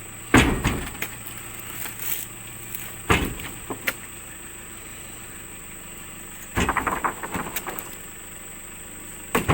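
Several sudden knocks and thumps, the loudest about half a second and three seconds in, with a quick run of clicks and taps around seven seconds, over a steady high-pitched hum.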